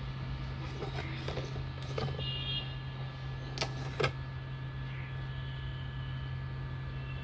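Steady low electrical hum with a few sharp clicks and taps, one about two seconds in and a close pair a little before four seconds, as from small tools handled on a workbench.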